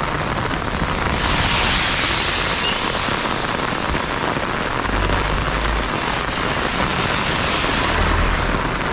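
Heavy rain pouring down, a dense steady hiss that swells about a second in, with a couple of brief low rumbles.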